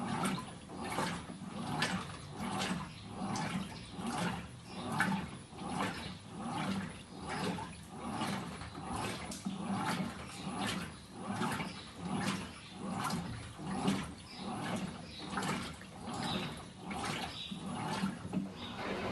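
Electrolux LDD16 16 kg washing machine agitating a wash load, churning and sloshing the water in a steady back-and-forth rhythm of about three swishes every two seconds.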